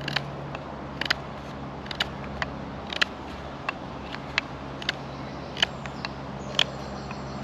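A knife shaving and scraping the wood of a bow drill set in short, sharp strokes, roughly one a second and unevenly spaced, to take grooves out of the wood. A steady low hum runs underneath.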